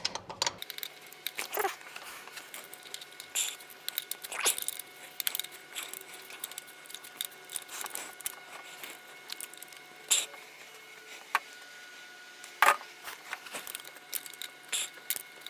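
Irregular metallic clicks and clinks of a socket wrench working a 10 mm bolt loose, with a few louder knocks, over a faint steady hum.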